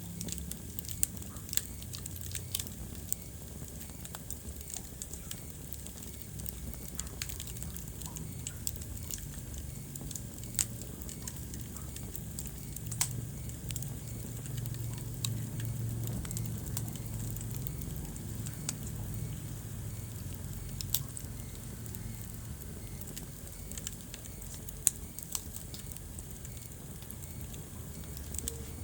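Wood fire burning in a fireplace: a steady low rumble of flames with frequent small crackles and a few louder, sharper pops.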